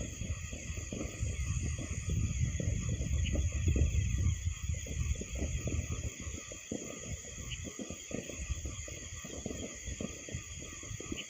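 Wind buffeting the microphone in a rough low rumble, heavy for the first six seconds and then lighter, over a steady high chirring of insects such as crickets.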